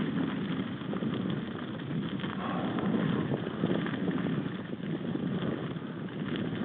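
Wind buffeting the microphone, an uneven rumble that swells and eases, with scattered small clicks and rattles.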